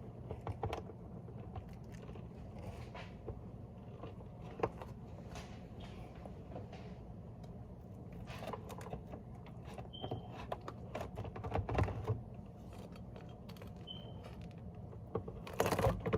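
A frozen pepperoni pizza being cut by hand on a board with a utensil that is not a pizza cutter: faint scattered scrapes and taps, with a short run of louder knocks about three-quarters of the way through. The blade is struggling and not getting through the crust.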